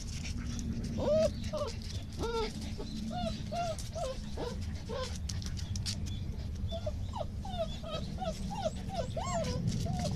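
A shepherd puppy whining in a long string of short, high whimpers, a few each second, over a low steady hum.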